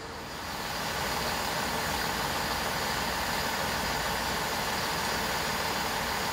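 Class 166 diesel multiple unit drawing into the platform and slowing to a stop, its underfloor diesel engines running under the rumble of wheels on rail. The sound swells over the first second, then holds steady.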